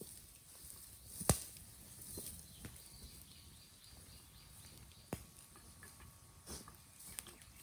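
Green bamboo bonfire crackling, with a few sharp, separate pops over a low background; the loudest pop comes about a second in and another about five seconds in.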